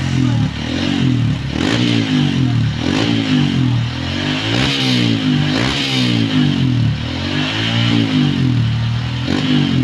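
Honda CRF single-cylinder four-stroke motorcycle engine on its stock muffler, revved repeatedly in quick throttle blips, the pitch rising and falling about once a second, while its ECU is being remapped.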